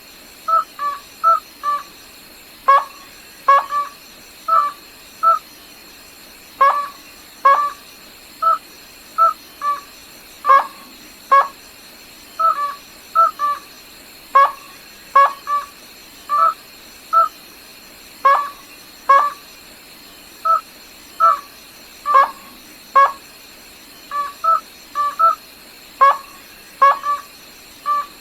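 Slaty-legged crake calling: short, sharp, clipped notes repeated over and over, singly and in quick pairs or triples, about one to two groups a second. A faint steady high tone runs underneath.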